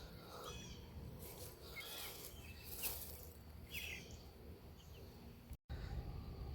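Faint, scattered peeps from young Cornish cross meat chicks, a few short high chirps a second or so apart, over a low rumble.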